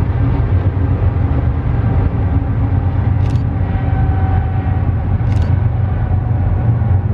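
Freight train rolling past with a steady heavy low rumble, and two brief high-pitched sounds about three and five seconds in.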